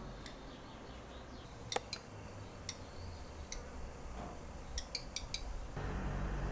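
Black redstart giving short, sharp ticking calls, singly at first and then a quick run of three or four about five seconds in. A low steady rumble comes in just before the end.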